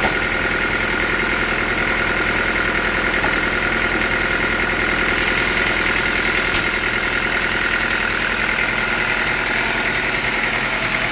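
Sawmill machinery running steadily, a constant whine over a low hum, with one sharp click about six and a half seconds in.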